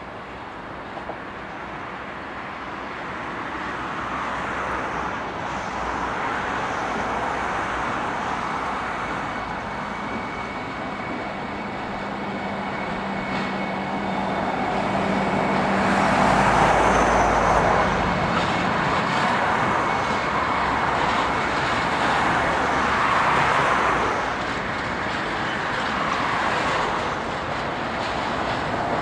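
Train passing on the rails: its rolling noise builds from a distance to its loudest just past the halfway point, then stays loud and wavers. A steady low hum runs under it until then, with a thin high squeal over the middle.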